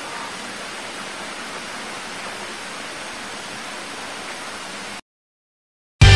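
Steady, even hiss of noise that cuts off abruptly about five seconds in. After a second of silence, a loud distorted electric guitar chord starts right at the end.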